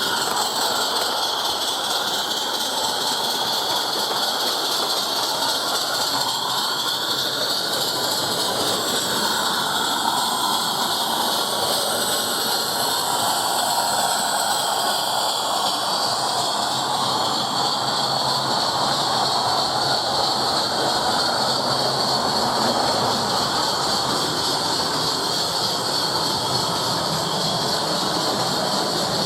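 Live steam miniature locomotive running with a passenger train: a steady, continuous hiss of steam with no pauses.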